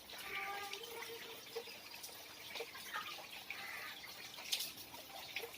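Rain falling, with water dripping and trickling in irregular drops.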